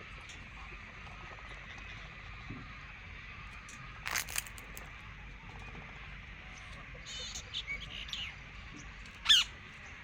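Parrots squawking in short, harsh calls: one about four seconds in, a quick run of short calls around seven to eight seconds, and the loudest sharp squawk near the end, over a steady background hiss.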